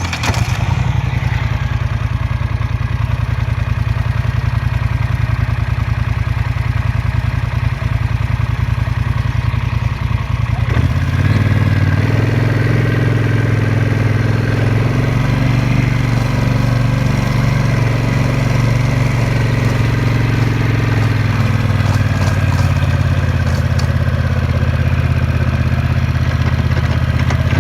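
Small off-road engine running steadily as the machine rides along, its note changing to a louder, fuller one about eleven seconds in.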